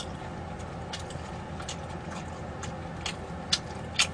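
Close-up eating sounds: a run of short, sharp wet mouth clicks and smacks from chewing, about six of them at uneven spacing, the loudest near the end, over a steady low hum.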